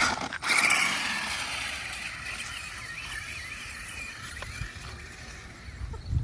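Toy RC monster truck's electric motor and wheels whirring as it keeps running, growing slowly fainter.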